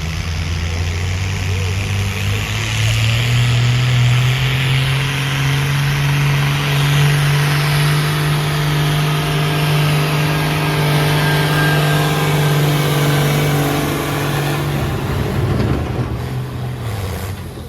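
Pulling tractor's engine revving up and held at high revs under load for a long pull, then dropping off near the end.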